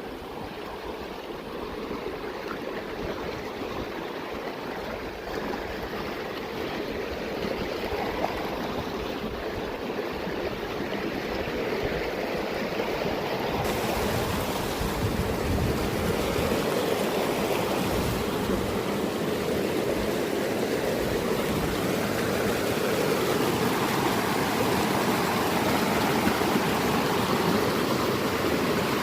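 Mountain stream rushing, growing steadily louder.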